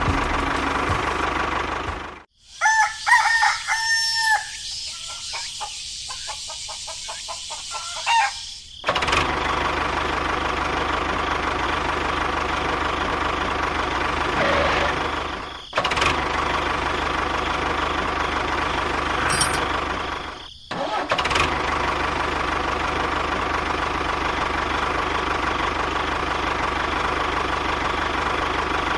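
A small motor running steadily with a constant whine, broken by abrupt cuts. A few seconds in, the motor drops out and a rooster crows.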